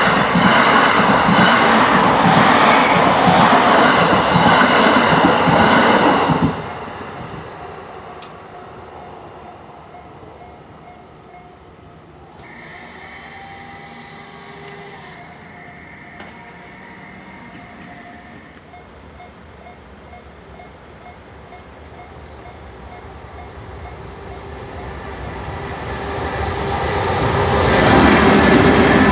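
A train passes over a railway level crossing, its noise cutting off suddenly about six and a half seconds in. The crossing's unusual-sounding warning bell keeps ringing in a regular beat, joined by a steadier tone for several seconds in the middle. A second train then approaches and passes, loud again near the end.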